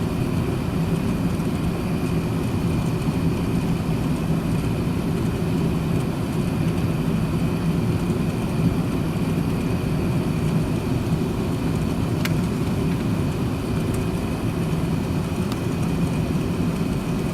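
Steady cabin noise inside an Airbus A380-800 airliner before takeoff: an even low hum with a faint high whine over it. A single small click comes about twelve seconds in.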